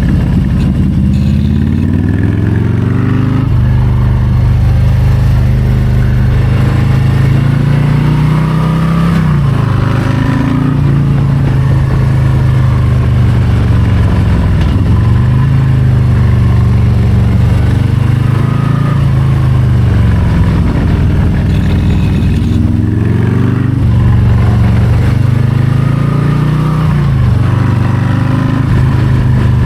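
2022 Harley-Davidson Low Rider ST's Milwaukee-Eight 117 V-twin running under way, the revs climbing in gear, holding, then dropping back as the throttle is rolled off, over and over every few seconds through a run of bends.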